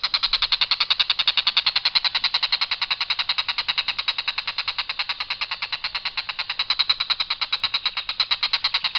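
Tengkek buto kingfisher giving a long, harsh rattling call: rapid, even notes at about nine a second, run together without a break or change in pattern.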